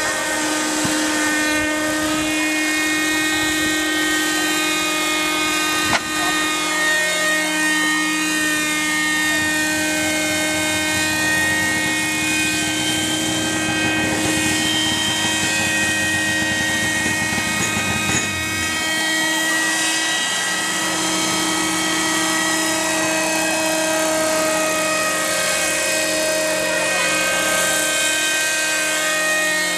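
Helicopter running steadily close by, a constant whine of several steady tones over the rotor noise, with one sharp knock about six seconds in.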